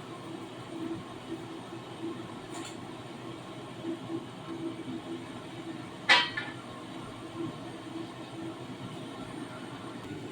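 Kitchen sounds: a steady low rumble, with a sharp clink of a dish or utensil about six seconds in and a fainter click about two and a half seconds in.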